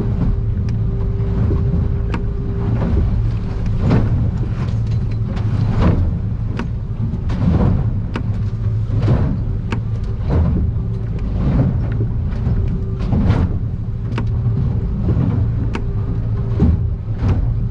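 Steady drone of a boat's outboard engine heard from inside an aluminium cabin, with a faint steady hum and sharp knocks and slaps about once a second as the hull pounds through rough chop and spray hits.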